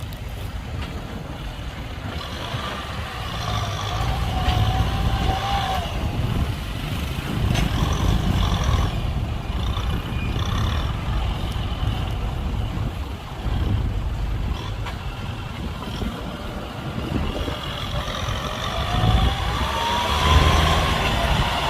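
Heavy diesel machinery running, a steady low engine rumble, with a whine that rises in pitch near the end as the engine works harder.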